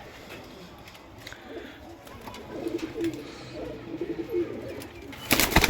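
Domestic pigeons cooing softly, a string of low wavering coos. About five seconds in, a short burst of loud clattering noise breaks in.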